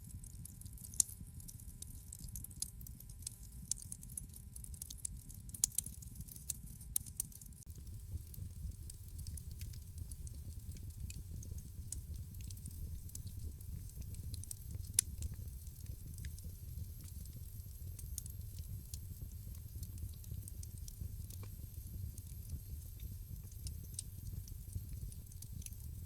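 Wood fire crackling in a fireplace: scattered sharp snaps and pops over a low steady rumble of the flames. The pops come thickest in the first several seconds, with two louder snaps about a second in and about fifteen seconds in.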